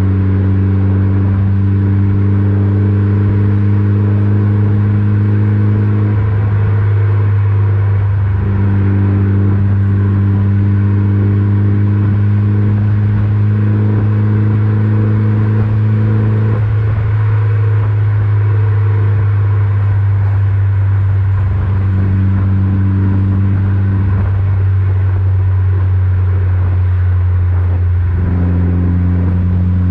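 Mitsubishi Lancer Evolution VIII's turbocharged four-cylinder, through an Invidia exhaust, running as a steady drone that holds one pitch, with its higher tones fading out and back in several times.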